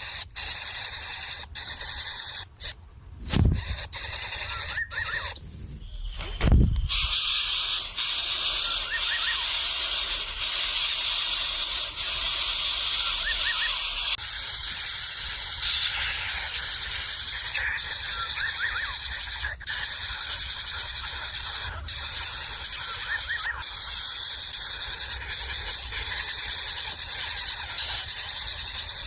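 Steady high-pitched hiss of a rural outdoor ambience, with faint short chirps every few seconds. Two dull thumps come a few seconds in.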